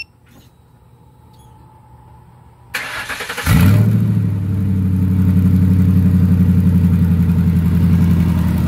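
Ford Crown Victoria Police Interceptor's 4.6-litre two-valve V8, breathing through long-tube headers and high-flow cats, is cranked by the starter about three seconds in, catches within a second and settles into a loud, steady idle.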